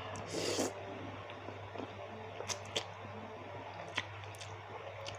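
Close-miked wet chewing of baso aci, chewy tapioca balls in spicy broth, with a brief louder rush of noise about half a second in and a few sharp mouth clicks, over a steady low hum.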